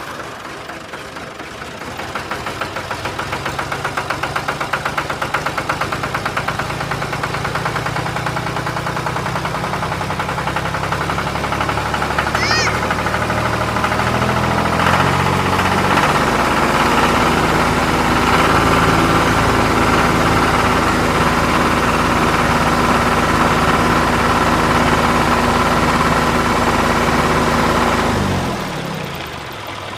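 A small engine running steadily with a fast pulsing beat. It grows gradually louder, then dies away near the end.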